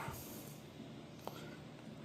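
Quiet room tone with one faint short click about a second and a quarter in.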